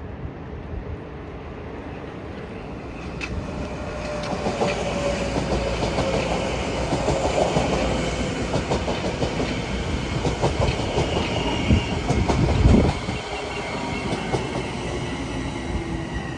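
Train passing on the tracks, its wheels clicking rapidly over the rail joints. It grows louder from about three seconds in and is loudest near the end, with a faint steady whine running under the clicking.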